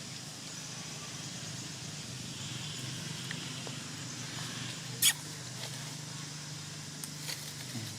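A steady low hum with a faint high hiss, broken by one sharp click about five seconds in and a few fainter clicks near the end.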